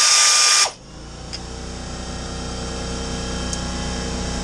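A power tool running stops abruptly under a second in. A steady low mechanical hum follows and slowly grows louder.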